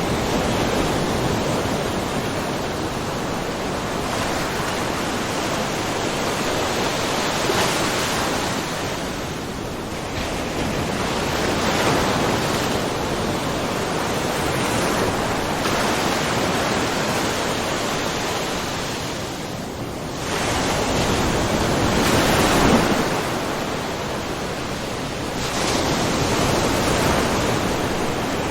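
Small ocean waves lapping and splashing against a rocky shore, a continuous wash of water that swells and eases every few seconds.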